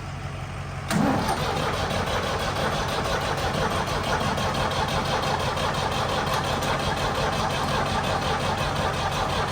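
Old Ford diesel tractor engine starting about a second in and then running steadily, with its injector lines freshly bled after a fuel-system cleaning.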